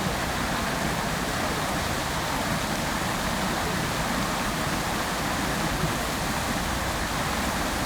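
Fountain water spraying and falling into its basin, a steady, even rushing splash.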